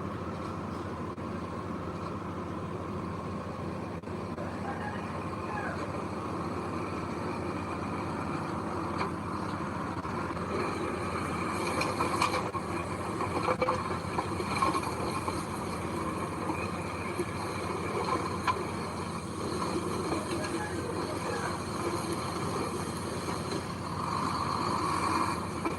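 Heavy diesel machinery running steadily, with a few sharp clanks partway through.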